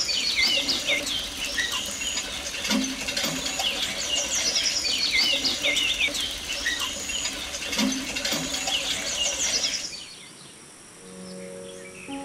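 Many small birds chirping and twittering in a busy, continuous chorus that stops about ten seconds in. Music starts near the end.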